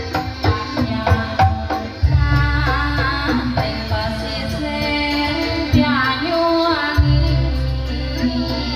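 Javanese jaranan music: a sung melody with gliding, ornamented notes over drum strikes, with a deep sustained bass tone coming in about two seconds in and again about seven seconds in.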